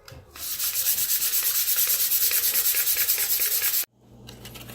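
Sandpaper rubbed in fast back-and-forth strokes over a plastic headlight lens, a loud rhythmic scratchy hiss that stops abruptly near the end.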